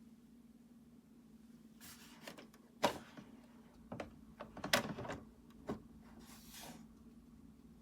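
A series of sharp clicks and knocks of hard objects being handled, the loudest about three seconds in and again just before five seconds, with a short scrape near the end, over a faint steady hum.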